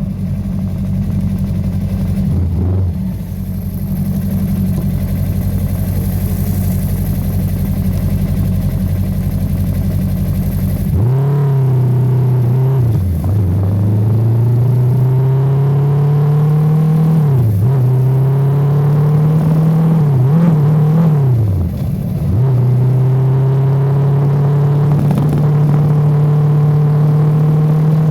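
Yamaha R25 motorcycle's parallel-twin engine running at a steady pitch, then from about eleven seconds in accelerating through the gears: the pitch climbs and drops back at each shift, several times over.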